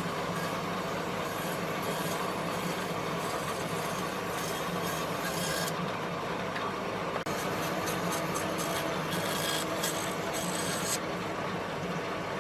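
Steady rasping of a power tool abrading wood, running without a break; its high hiss thins out abruptly around six seconds in and returns near the end.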